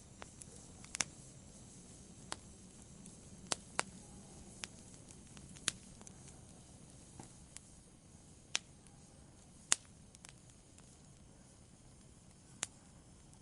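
Wood campfire burning quietly: a soft low hiss with sharp crackles and pops at irregular intervals, a dozen or so, the loudest about ten seconds in.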